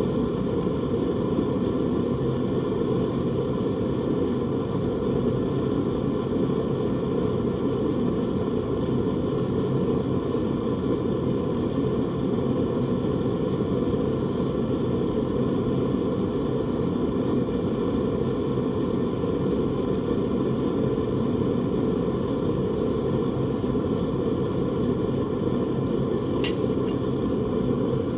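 A blacksmith's forge runs with a steady, even low rush while metal heats in it. There is one sharp click near the end.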